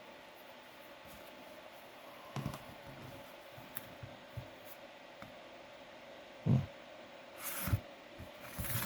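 Painting and handling noises at a work table: a few soft knocks and brief scratchy rubbing, over a steady faint hum of room tone.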